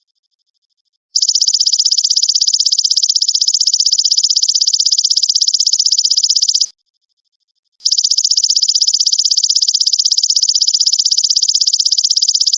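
Belalang emas (golden grasshopper) stridulating: long, high-pitched buzzing trills of very rapid, even pulses. One trill starts about a second in and stops shortly past the middle; after a pause of about a second the next starts and runs on, with faint ticking in the gaps.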